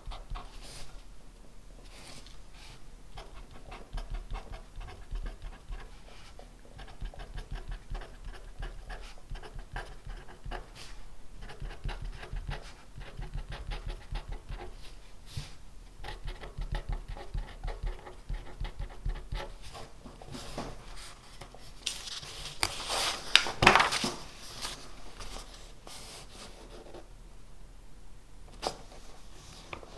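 Pen writing on paper: a continuous run of small scratching strokes, with a louder burst of scratching and rustling about 23 seconds in.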